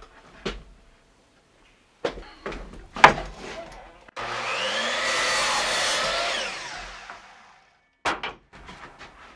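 Electric power saw started: its motor spins up with a rising whine, runs for about two seconds and winds down with a falling whine. A few wooden knocks from handling lumber come just before.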